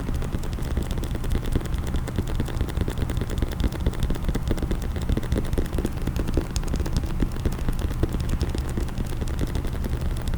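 Fast, continuous tapping on a case, many quick taps a second, for ASMR.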